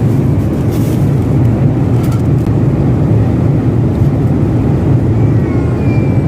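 Airliner cabin noise in cruise: a steady low roar of the jet engines and the air rushing past the fuselage.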